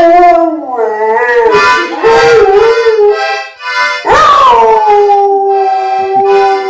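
Dog howling in long drawn-out notes. The first howls waver up and down; about four seconds in a new howl rises and is then held on one steady note.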